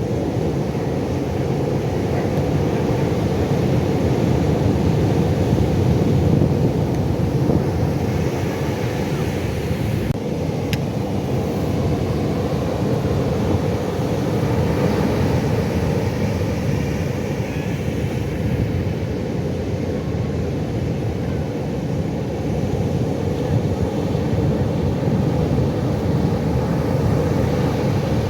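Pacific Ocean surf: a continuous low rush of breaking waves, swelling and easing gently every several seconds.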